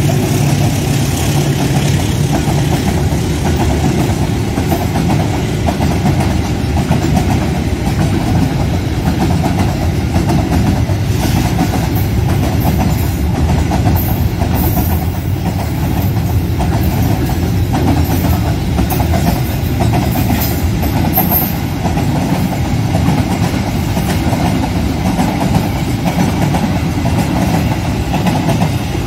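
Container freight train's loaded flat wagons rolling past at speed, with steady steel-wheel-on-rail noise.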